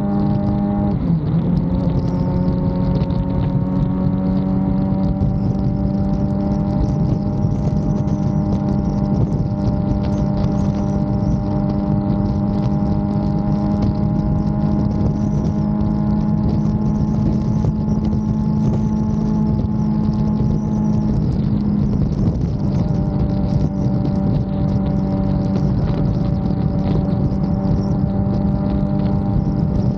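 Suzuki GSX-R750 inline-four engine pulling steadily under way, its note slowly rising, with brief breaks about a second in and about 22 seconds in, as at a gear change. Wind buffets the helmet-side microphone throughout.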